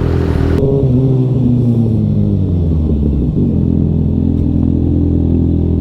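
Sportbike inline-four engine running under way, its note sliding down and back up with the throttle and changing suddenly about three seconds in. A rush of wind noise cuts off just after the start.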